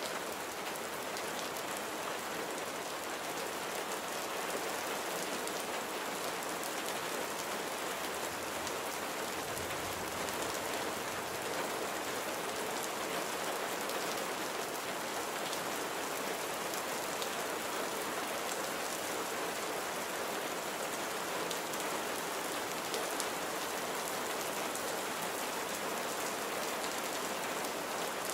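Steady rainfall, drops pattering on surfaces, with a brief low rumble about ten seconds in.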